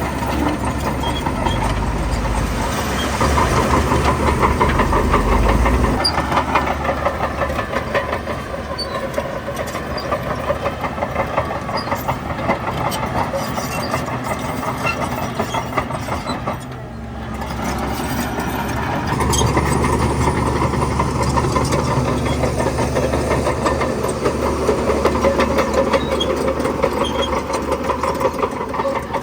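Shantui bulldozer's diesel engine working steadily, with a clatter from its steel crawler tracks. The sound dips briefly a little over halfway through, then picks up again.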